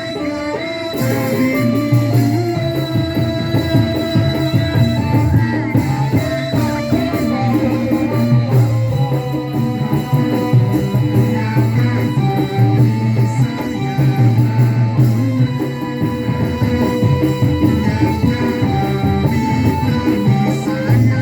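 Live band music playing an instrumental passage: a melody of held notes over a steady, pulsing bass beat.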